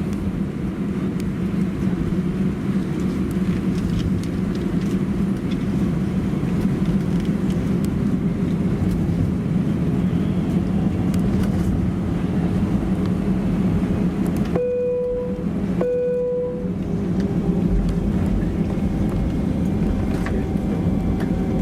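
Steady cabin noise inside an Airbus A320-232: the low hum of its IAE V2500 engines at low power and the cabin air, with light rattles. About fifteen seconds in, two short identical tones sound about a second apart.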